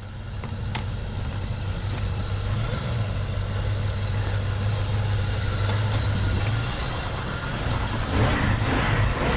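Engine of a 4x4 rescue vehicle running steadily as it drives up, growing slowly louder, with a burst of rougher noise about eight seconds in.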